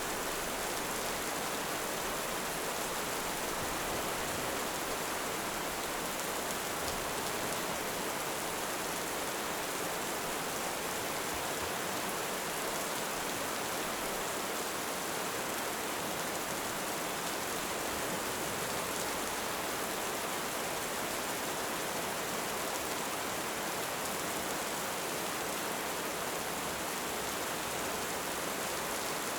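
Steady heavy rain: an even, unbroken hiss of rainfall.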